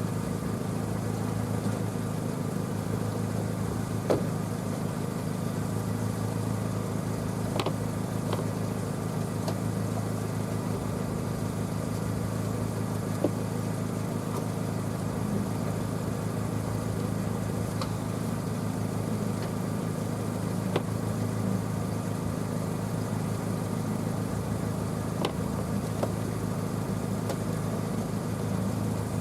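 Ford F-150 pickup's engine idling steadily, with a few light clicks and taps over it.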